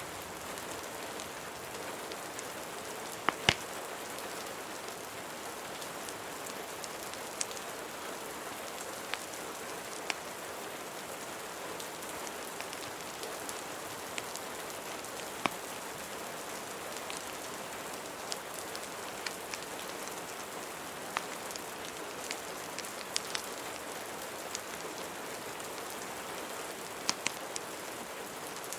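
Steady rain hiss with scattered sharp pops and crackles from a wood fire, the loudest a quick pair about three seconds in and another pair near the end.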